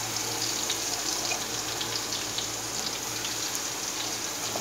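Pounded garlic and chilli paste sizzling in hot oil with browning onions: a steady hiss dotted with small crackles and pops, starting just as the paste goes into the pot.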